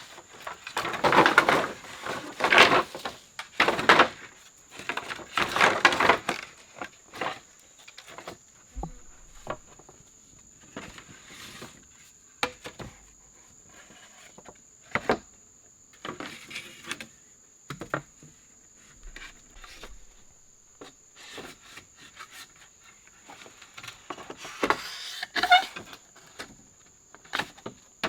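Wood and brush being handled: rustling and scraping bursts, then scattered knocks and clicks. A steady high insect drone runs underneath.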